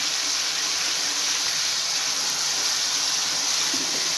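Ground onion and spice masala frying in hot oil in a pan, a steady even sizzle.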